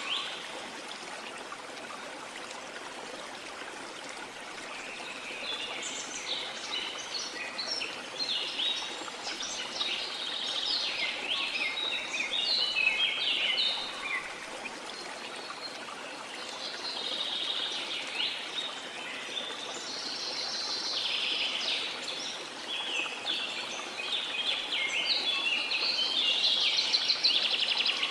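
Small songbirds singing in quick chirps and trills over a steady wash of sea water. The birds start a few seconds in, pause briefly about halfway, then sing again to the end.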